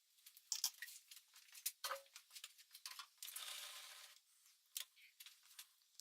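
Faint clicks, clinks and light knocks of metal tools and parts being handled, with about a second of scraping noise a little past the middle.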